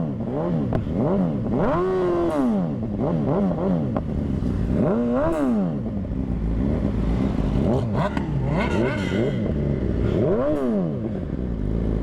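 Honda CBR600RR inline-four engine revving up and dropping back again and again, with three big revs about two, five and ten seconds in.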